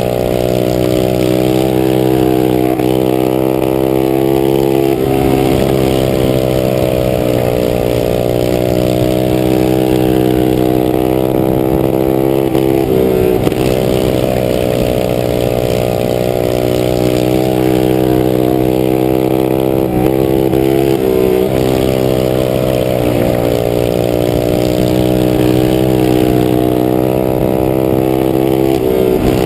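Several racing minibikes' small engines running near full throttle together, their pitch sagging and climbing back about every eight seconds.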